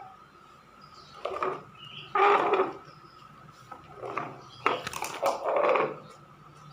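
Battery-powered toy robot cat playing its recorded meow, about four short calls.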